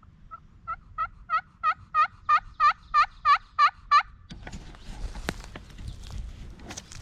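Turkey call run as a hen yelp series: about a dozen yelps, roughly three a second, growing louder, then stopping about four seconds in. Rustling and a few knocks of movement through brush follow.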